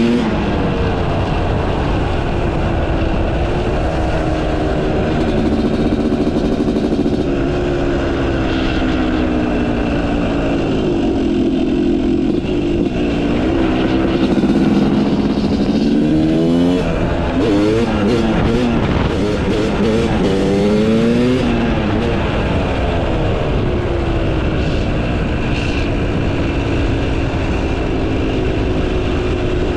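Yamaha YZ250 two-stroke motocross bike with a Pro Circuit exhaust, riding along, heard from the rider's position. The engine note rises and falls with the throttle, with a run of quick rev-ups and drops, about one a second, midway through.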